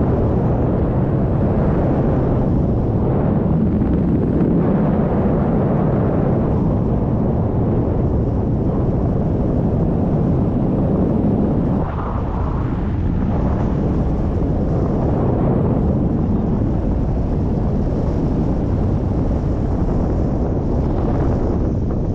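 Loud, steady wind rushing over the microphone in flight, with a brief dip about halfway through.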